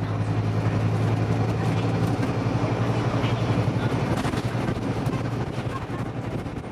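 Scania OmniDekka double-decker bus's diesel engine running with a steady low hum, easing off a little near the end.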